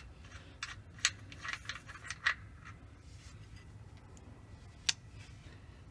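Scattered light metallic clicks and clinks of a socket and breaker bar being handled: a few about a second in, a cluster around two seconds, and one sharp click near five seconds, over a faint steady low hum.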